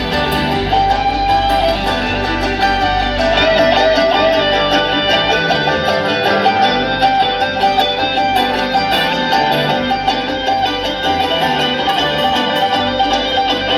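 Live bluegrass string band playing an instrumental passage, with acoustic guitar, banjo and fiddle.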